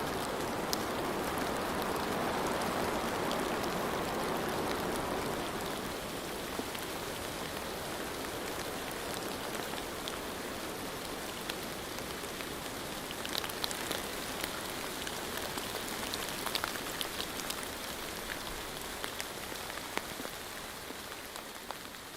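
Steady rain falling, with scattered sharper drop taps standing out, most of them in the second half. It begins to fade near the end.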